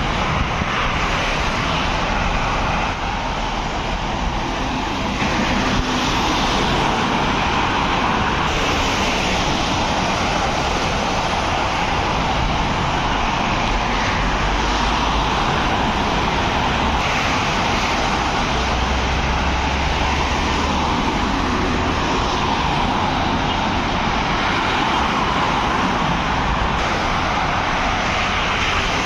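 Steady road traffic noise: vehicles running past on a road, with a continuous tyre and engine rumble that swells briefly past the middle.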